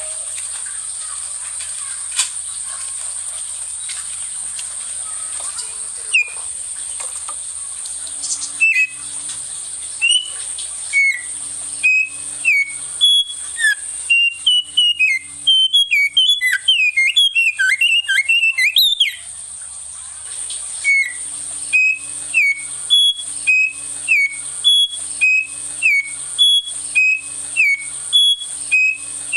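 A local songbird singing a long series of sharp, loud chirping notes, about two a second, breaking into a quick jumbled run of notes in the middle before returning to the steady rhythm. A steady high-pitched hiss runs underneath.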